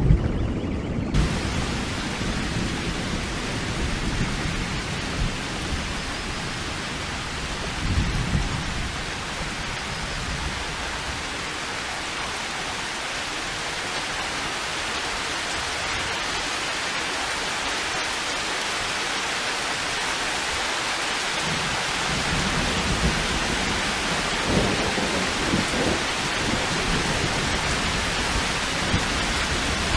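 Steady rain that comes in abruptly about a second in, with low rumbles of thunder about eight seconds in and again through the last third.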